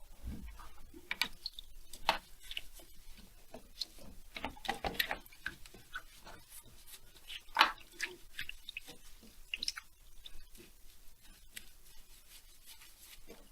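Irregular light clicks, knocks and rubbing as chainsaw engine parts are handled and cleaned on a workbench.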